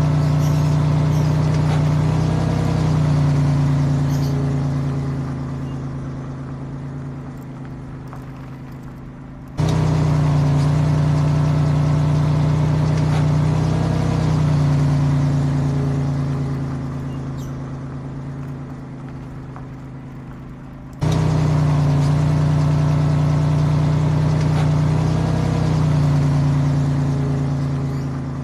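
A recorded truck-engine sound effect, played over and over. Each play starts loud with a steady engine drone, then slowly fades away, until it restarts suddenly; this happens twice, about 10 and 21 seconds in.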